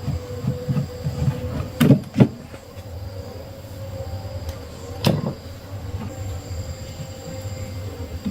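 A machine running with a steady hum, with sharp knocks twice about two seconds in and once about five seconds in.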